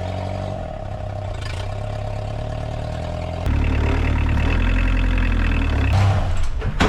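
A vehicle engine running steadily, then running louder and heavier from about halfway through.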